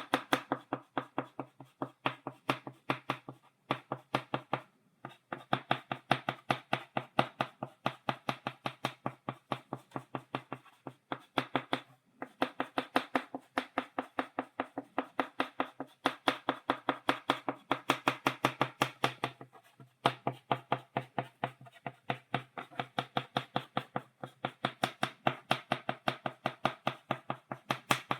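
Chalk tapped against a blackboard to make dots: rapid, even taps, several a second, in long runs broken by a few brief pauses.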